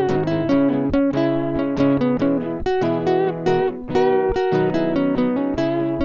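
Acoustic guitar strumming chords, without vocals: an instrumental passage of a song.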